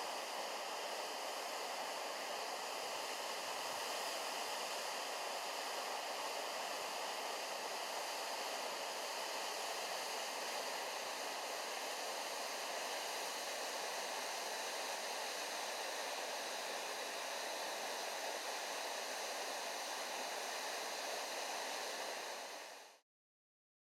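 Waterfall pouring, a steady rush of falling water that fades out sharply near the end.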